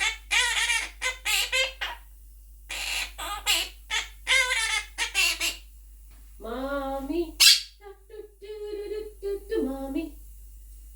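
Monk parakeet chattering and warbling in short pitched bursts, with a sharp shrill squawk about seven and a half seconds in.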